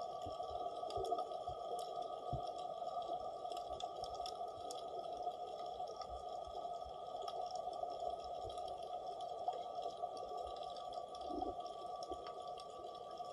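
Underwater ambience picked up by a submerged camera: a steady hum with scattered faint clicks and crackles and occasional low muffled thumps.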